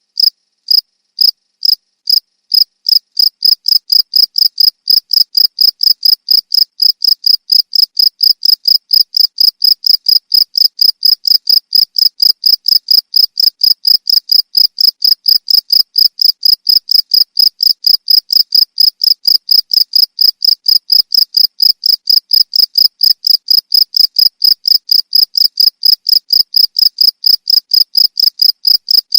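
Cricket chirping in a fast, even rhythm of about three or four high chirps a second, with a few uneven gaps in the first couple of seconds.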